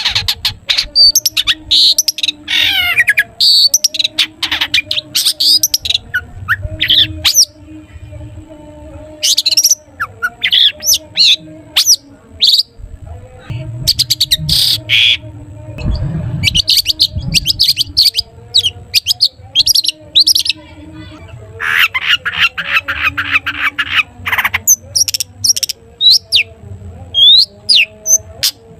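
Long-tailed shrike (cendet) singing a loud, varied string of sharp chirps, whistles and falling slurred notes, broken by short pauses. In the last third it gives a rapid run of repeated notes. A faint steady hum lies underneath.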